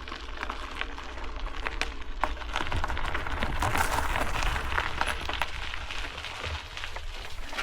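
Steady gravel crunching with many small scattered clicks, over a low rumble of wind on the microphone.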